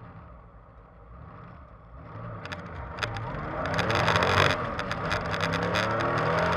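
1973 Porsche 911's air-cooled flat-six, heard inside the cabin, idling and then pulling hard from a standstill about two seconds in. The engine note climbs in pitch and loudness, drops at an upshift about four and a half seconds in, and climbs again.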